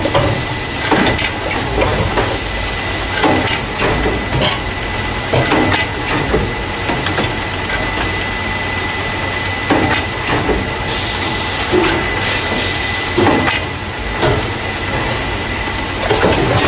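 Carton caser machine running, loading paper juice and milk cartons into plastic crates: a steady low rumble and a steady high tone under irregular clacks and knocks of the moving parts, with a stretch of hiss about eleven seconds in.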